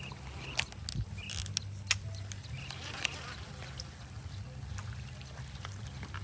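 An insect buzzing steadily close by, with a few short sharp clicks in the first three seconds.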